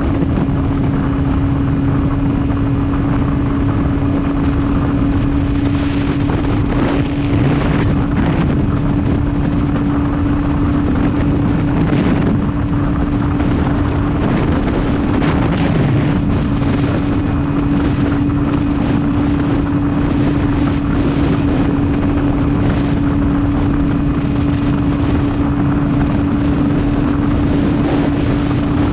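Motorcycle engine running at a steady cruising speed with a constant hum, under steady wind rushing over the microphone.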